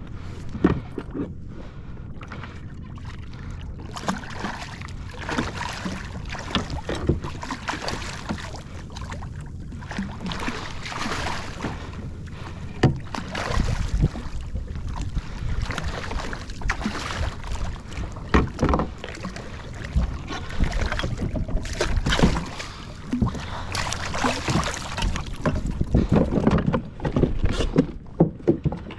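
Water sloshing and splashing against a fishing kayak's hull, with wind on the microphone and irregular knocks and bumps throughout.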